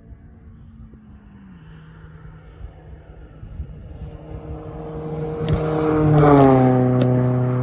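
A motor vehicle drives past, its sound growing louder to a peak about six seconds in, then dropping in pitch as it goes by.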